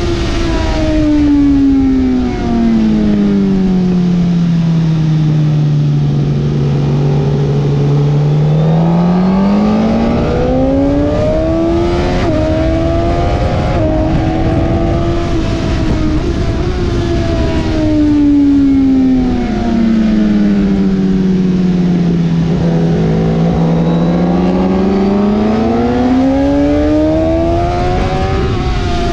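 2020 Suzuki GSX-R1000R's inline-four engine at track speed. The note falls slowly for several seconds and then climbs back under acceleration, twice over, with a brief stepped change as it climbs near the middle.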